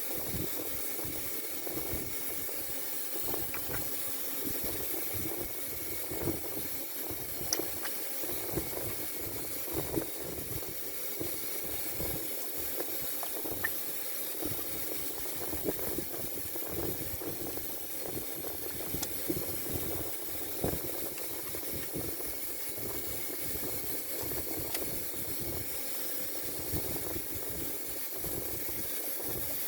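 Steady background hiss with a few faint, light clicks scattered through it.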